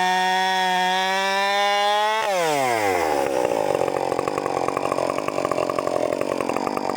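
Husqvarna 562 XP Mark I two-stroke chainsaw held at full throttle with a steady high-pitched whine. About two seconds in the throttle is released and the revs drop quickly to a low, slightly uneven idle.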